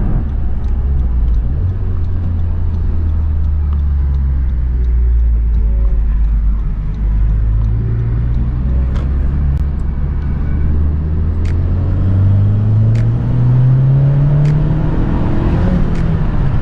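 Honda Civic Type R's four-cylinder engine driving at low, steady revs, then revving higher over the last few seconds as the car accelerates toward the freeway.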